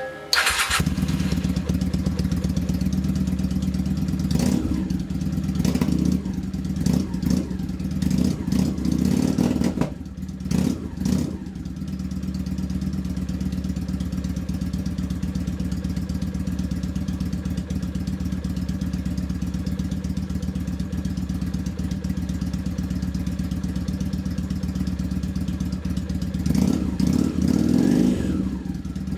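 Honda VT600 Shadow's V-twin engine through a 2-into-1 aftermarket exhaust with a very deep sound: it starts up about half a second in, is revved in several short blips, settles to a steady idle, then is blipped again near the end.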